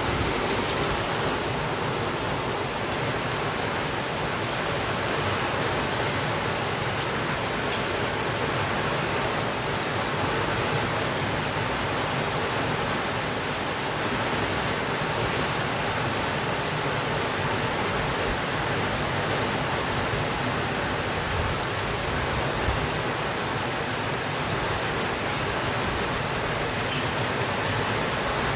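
Steady rainfall, an even dense hiss with faint scattered drop ticks.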